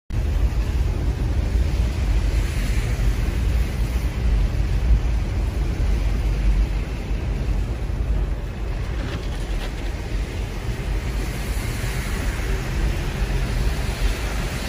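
Wind buffeting the microphone in a storm: a loud, steady low rumble with a rushing hiss over it.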